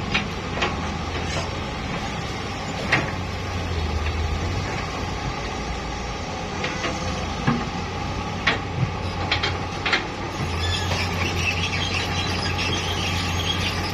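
Truck engine running steadily with a low hum, with scattered short sharp knocks over it.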